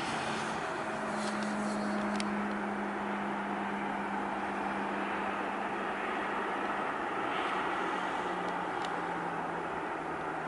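Boeing 747-400 jet engines running at low power after landing: a steady rushing with a low hum that drops slightly in pitch about seven seconds in.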